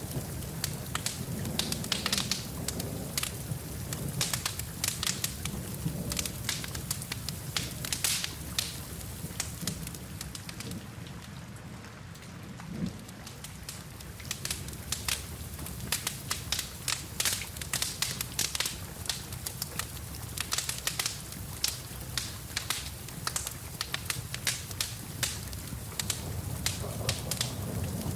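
Wood fire in a fireplace crackling with frequent, irregular sharp pops over a steady hiss of rain and a low rumble. About halfway through, the pops thin out for a few seconds, then pick up again.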